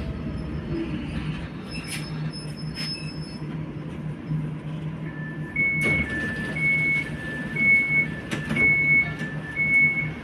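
Passenger train running with a steady low rumble and a few sharp clicks. From about halfway an electronic warning signal sounds, a high and a low beep alternating about twice a second.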